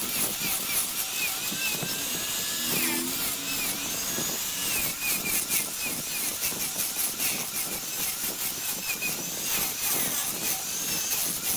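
Wood lathe running with a tool cutting the spinning wood, a steady rough hiss, with repeated short chirping tones above it.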